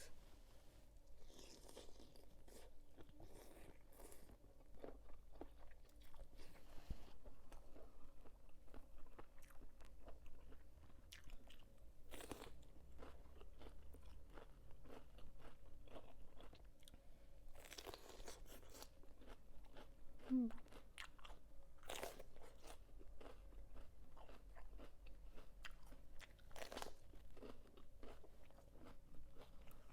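Close-up chewing and crunching of crunchy squid salad, with many small crackling bites throughout.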